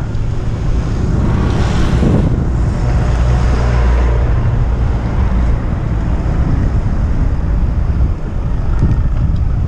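Wind buffeting the microphone of a camera riding along on a bicycle: a steady, loud noise heaviest in the low end, swelling for a couple of seconds after the start.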